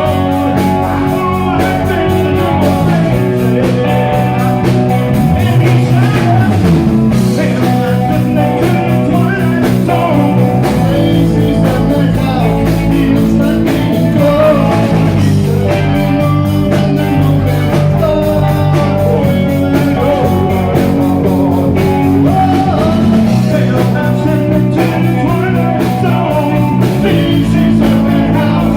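Rock band playing live, with singing over guitar, bass and drums.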